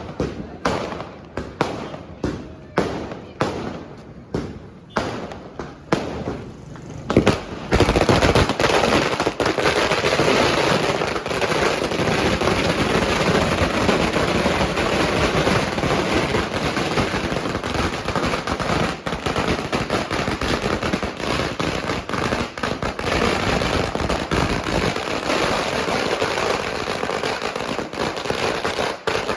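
A 10,000-wala string of firecrackers going off: separate sharp bangs, a few a second, then about eight seconds in a dense, unbroken rattle of rapid bangs that carries on steadily.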